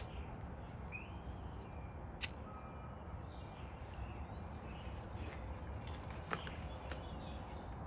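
Birds chirping now and then over a steady low outdoor rumble, with a few short sharp clicks.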